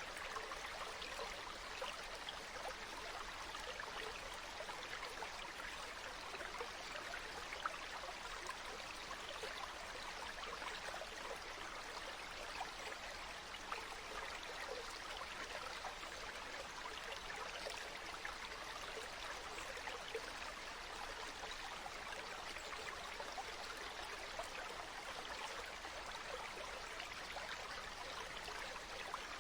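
Water flowing steadily over rocks in a stream, a continuous bubbling rush with small splashes throughout.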